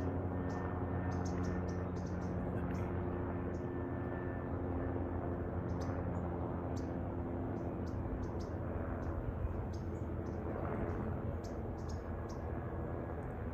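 Short, high-pitched bird chirps and squeaks coming in quick scattered runs from the trees, over a steady low hum.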